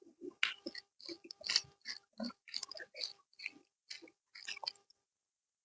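Close-miked chewing of spicy chicken, a fast uneven run of wet smacks and bites. It breaks off suddenly about half a second before the end.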